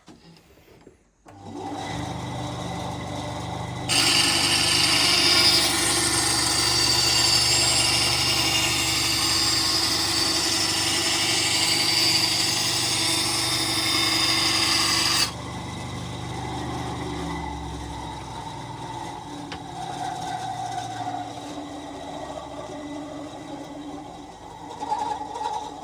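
Parkside PBS 350 BZ benchtop band saw switched on about a second in, its motor humming steadily. From about four seconds the blade cuts through wood with a loud, noisy rasp that stops abruptly some eleven seconds later. The saw then runs on more quietly, and its low hum drops away a couple of seconds after that.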